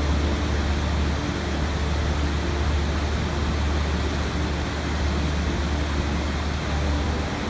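Steady rushing water with a deep low rumble under an even hiss, like a waterfall or fast stream.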